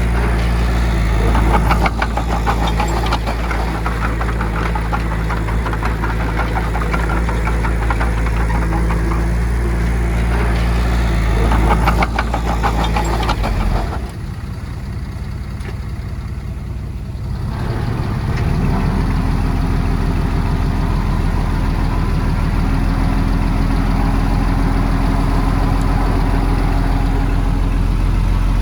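Heavy diesel engines of earth-moving machinery running, with a rapid metallic clatter over the engine for the first half. About halfway through the sound drops for a few seconds, then a different diesel engine comes in and runs steadily.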